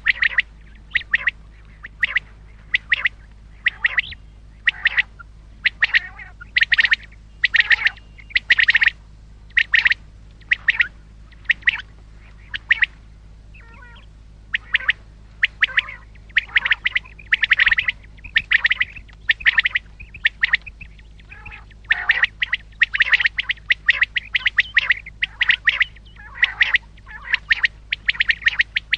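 Common quail calling over and over in short, sharp notes, about one or two a second, some in quick clusters, with a brief pause partway through.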